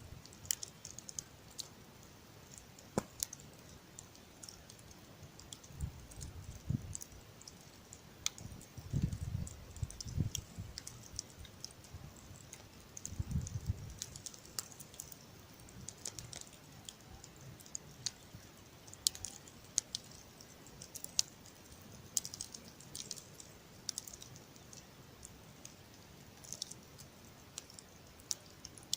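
Campfire burning down, its wood crackling with scattered sharp pops and snaps, plus a few low muffled rumbles about a third of the way through.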